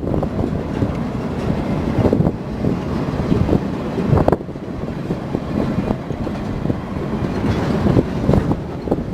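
Railroad cars rolling past, a steady rumble with irregular clicks and knocks from the wheels.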